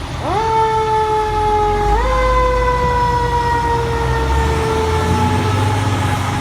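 Fire truck siren winding up sharply, then slowly dropping in pitch, pushed up again about two seconds in and easing down once more, over the low rumble of the truck's engine.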